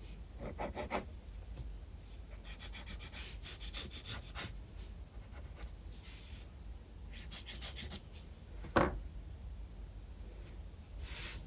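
Graphite pencil scratching across sketchbook paper in quick runs of back-and-forth shading strokes, three runs in all. A single sharp knock about nine seconds in is the loudest sound.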